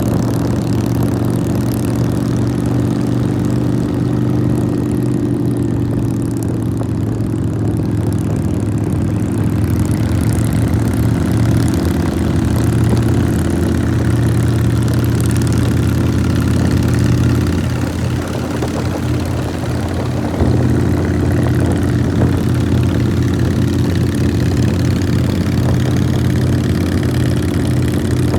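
Motorcycle engine running steadily under way, with a dip in level about eighteen seconds in and a sudden step back up about two seconds later.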